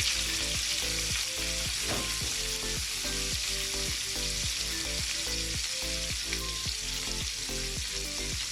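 Sliced onions, jalapeño and green pepper sizzling steadily in hot oil in a frying pan.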